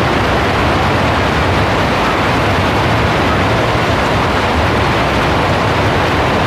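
Heavy rain pouring steadily, a loud, even hiss with no let-up.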